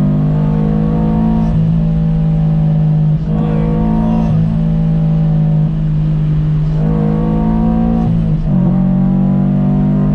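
Supercharged Subaru BRZ flat-four engine with a catless header and single-exit exhaust pulling hard under acceleration, its pitch climbing and then dropping back at each upshift several times.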